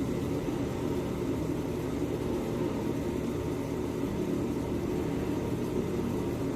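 Steady factory machinery din: a continuous low hum with a noisy wash over it.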